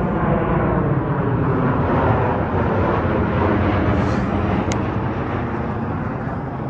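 Jet airliner passing overhead: steady engine noise whose pitch falls slowly as it goes by, easing off a little near the end.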